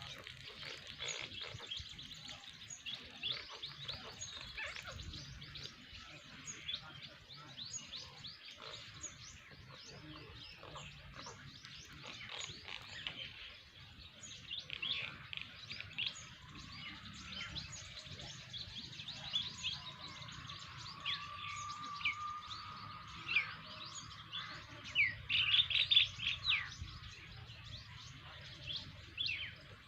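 Small birds chirping: many short, quick calls throughout, with a louder cluster of chirps near the end.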